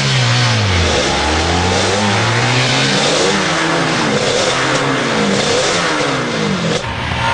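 Engine of a street vehicle accelerating hard through the gears. The pitch climbs and drops back again and again with each shift.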